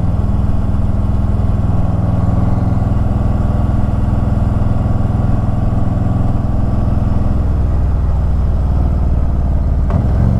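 Harley-Davidson Ultra Limited's V-twin engine running steadily under way, with steady road and wind noise. The engine note drops a little about seven seconds in, and there is a brief knock near the end.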